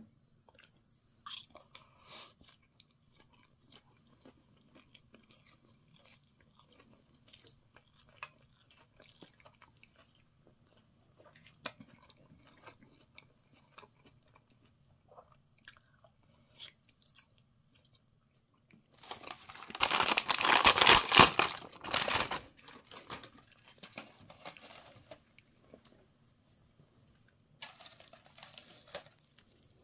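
Someone chewing a mouthful of cockle bibimbap, with small clicks and soft mouth sounds. A little past the middle comes a loud crinkling rustle lasting about three seconds, and a shorter one near the end: a plastic packet of seasoned laver being opened and handled.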